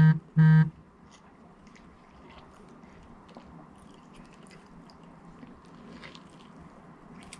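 A man chewing food close to the microphone, with faint wet mouth clicks throughout, after two short hummed "mm-mm" sounds at the very start.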